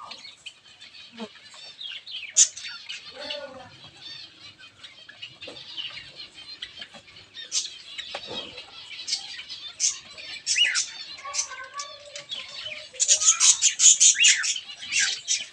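Small aviary birds chirping with many quick, high calls, and a rapid flurry of wing flapping near the end.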